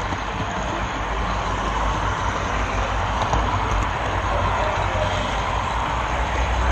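Steady rumble and hiss of a model train rolling along its track, picked up by a camera riding on the train.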